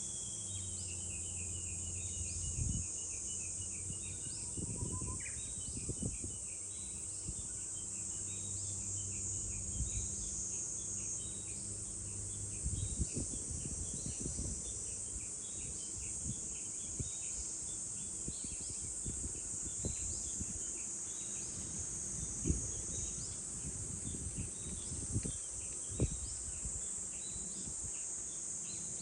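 Cicadas droning steadily at a high pitch, with a bird giving a falling trill at the start and then many short repeated chirps throughout. Scattered low thumps and rumbles sound underneath.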